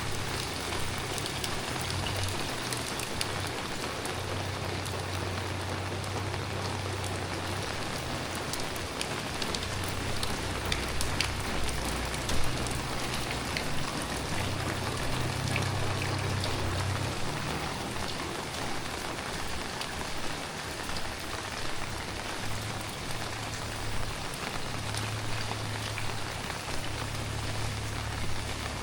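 Heavy tropical rain falling steadily, with many individual drops ticking close by. A low rumble comes and goes underneath.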